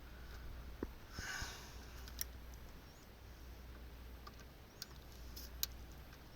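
Faint scattered clicks and handling noises over a low steady hum, with a short breathy sound about a second in.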